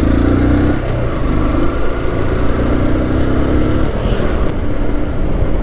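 Motorcycle engine running under way with road and wind noise; the engine note eases off about four seconds in.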